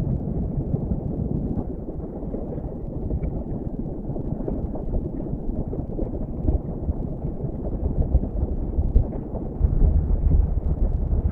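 Wind buffeting the microphone: a low, fluttering rumble that swells in gusts, louder near the end.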